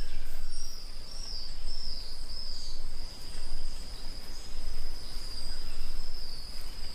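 Natural outdoor ambience: a steady, high-pitched insect trill that wavers slightly in the first few seconds, over a low background rumble.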